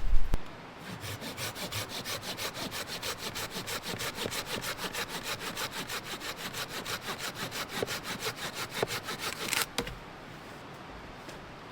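Hand saw cutting through wood in quick, even back-and-forth strokes, which stop a little before the end. A brief low rumble comes at the very start.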